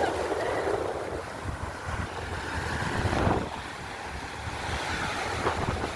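Sea surf washing in and out, with wind buffeting the microphone; a wave swells to its loudest a little past halfway and then falls away.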